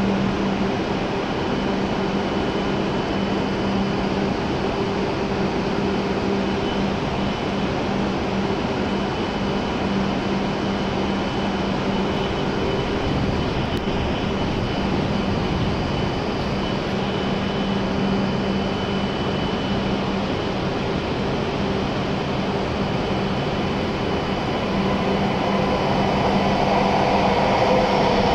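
Steady hum of a shinkansen station, with a constant low tone. In the last few seconds a growing rushing noise as an E7-series Shinkansen train pulls into the platform.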